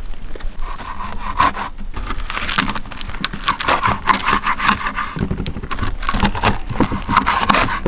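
A knife sawing through crisp pizza crust against a wooden board: quick, irregular scraping strokes repeated throughout.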